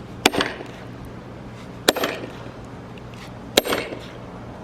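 Firewood being split: three sharp blows into a log about a second and a half apart, each with a short ring.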